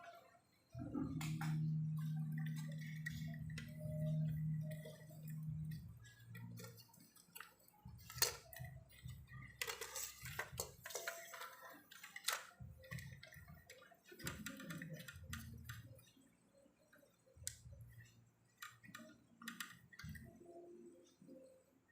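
Clicks, taps and light rattling of tools and small parts being handled during electronics repair work, with a steady low hum for several seconds near the start.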